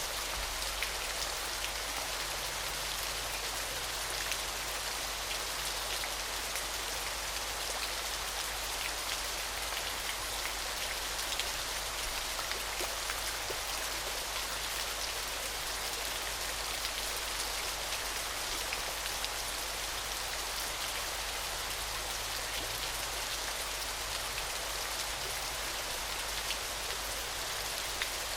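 Falling water: a steady, even hiss of water crashing, dotted with many small splashes, over a constant low rumble.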